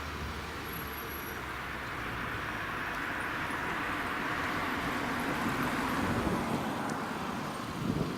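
Airbus A330-200 jet engines on approach: a steady rushing jet noise that slowly grows louder as the airliner comes in.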